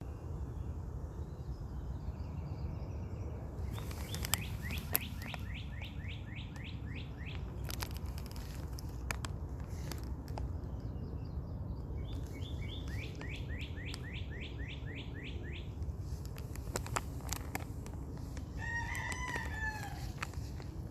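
Birds calling: two runs of quick repeated chirps, each about three seconds long, and a short wavering call near the end, over a steady low rumble, with a few scattered clicks.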